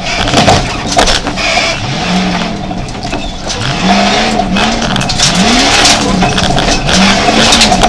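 Jeep Grand Cherokee engine heard from inside the cabin, revving up and dropping back several times as it drives hard over a rough dirt track, with knocks from the jolting car.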